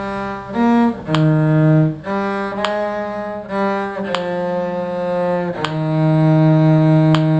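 Bowed strings playing a slow tune at practice tempo: sustained notes that change about once a second, each with a clear bow attack, and a longer held note in the last couple of seconds.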